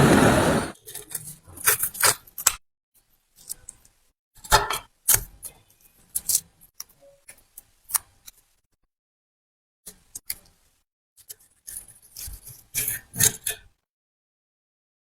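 Scattered light metallic clicks and clinks from steel hand pliers and small metal parts being handled, coming in short clusters with dead silence between them.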